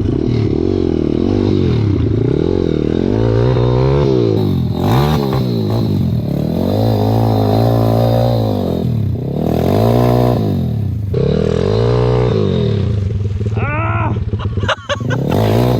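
Single-cylinder four-stroke pit bike engine revving up and falling back again and again, as when riding and throttling on and off.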